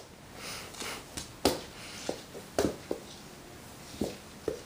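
A handful of short, light taps and knocks, about a second apart, over faint rustling.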